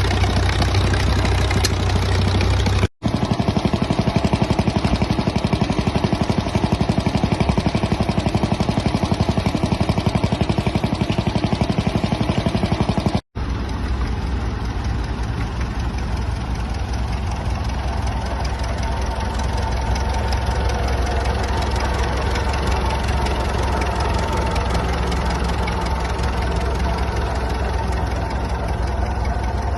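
Vintage engines running steadily, in three stretches separated by two abrupt cuts. The middle stretch has a fast, even firing beat.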